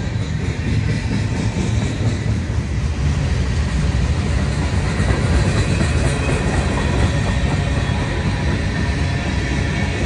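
Freight cars rolling past close by: a steady rumble of steel wheels running on the rails, growing a little louder through the middle.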